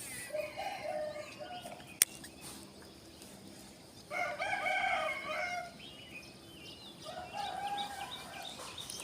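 Roosters crowing three times, each crow lasting one to two seconds, with a sharp click about two seconds in.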